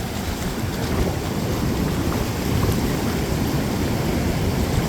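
Ocean surf washing on the beach, mixed with wind buffeting the microphone: a steady, even noise heaviest in the low end.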